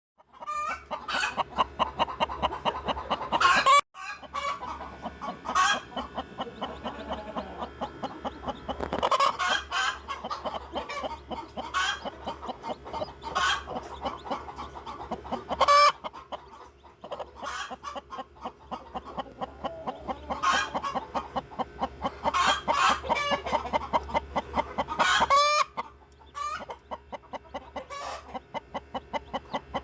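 Naturally hatched Plymouth Rock chicks peeping rapidly and continuously, with a hen clucking among them.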